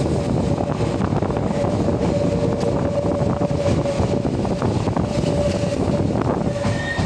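Nose Electric Railway train (set 1757F) running, a loud steady rumble of wheels and running gear with a steady hum held on one pitch throughout.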